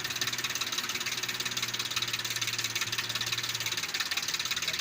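Diesel tractor engine running steadily with a fast, even clatter.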